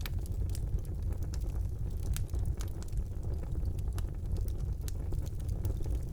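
Fire burning in a fireplace: a steady low rumble of flames with frequent sharp crackles and pops, several a second.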